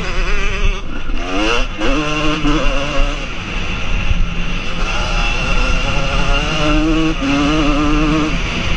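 Motocross bike engines revving hard, pitch climbing and dropping repeatedly with throttle and gear changes.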